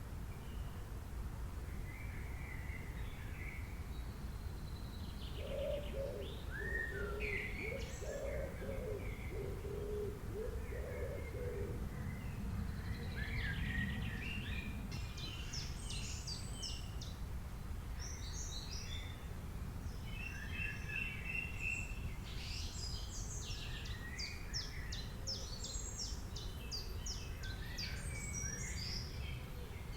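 Several wild birds calling and singing, with many short high chirps and rapid trills that grow busier in the second half, over a steady low background rumble. From about five to twelve seconds in, a lower bird repeats a run of short notes.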